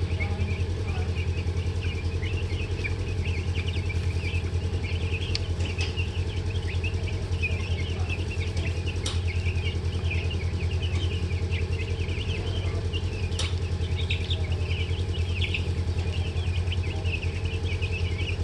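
A flock of young chicks peeping continuously, many short chirps overlapping, over a steady low hum.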